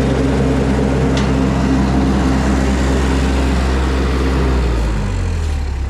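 Mini skid steer engine running steadily at high revs, then dropping in pitch and getting a little quieter about five seconds in as it throttles down.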